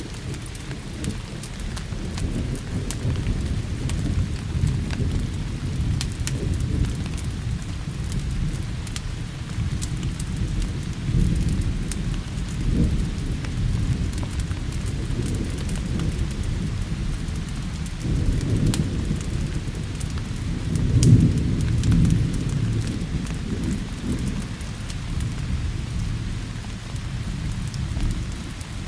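Steady rain with a long, rolling rumble of thunder that swells and fades, loudest about two-thirds of the way through. Scattered sharp crackles of a wood fire run throughout.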